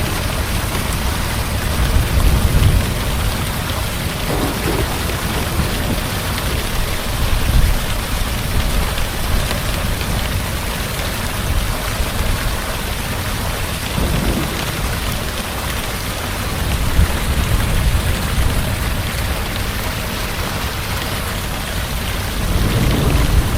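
Heavy rain falling steadily, with low thunder rumbling and swelling several times.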